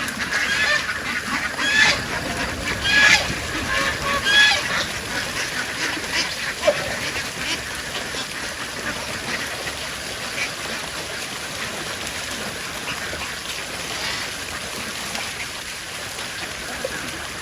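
A flock of ducks quacking and calling, with several loud calls in the first few seconds and softer, continuous chatter after that.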